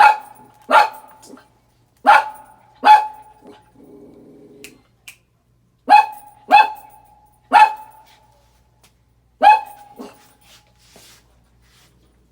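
A dog barking: about eight loud, sharp barks in irregular pairs and singles, with short gaps between them.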